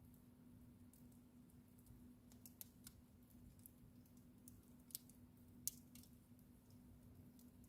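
Wood fire crackling: sparse, irregular sharp pops and snaps, two louder ones a little past the middle, over a faint steady low hum.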